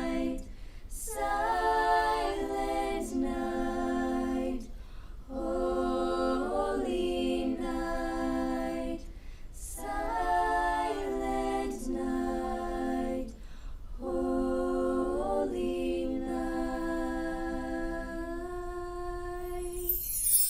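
Choir singing a cappella: held chords in phrases of about four seconds, each separated by a short breath. The last chord ends just before the end.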